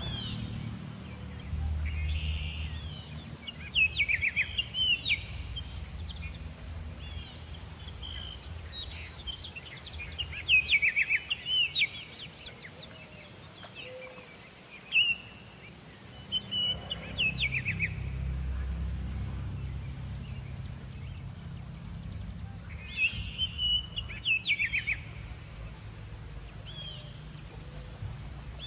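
Birds chirping in quick runs of short, high notes several times, over a low background rumble.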